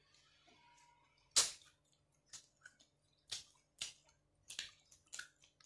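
Close-miked chewing with the mouth closed: a run of about seven short, sharp wet smacks at an uneven pace, the loudest about a second and a half in.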